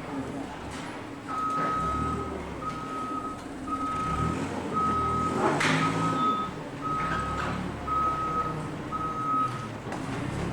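Backup alarm beeping about once a second, eight single-pitch beeps over a low machine rumble, with a sharp bang about halfway through.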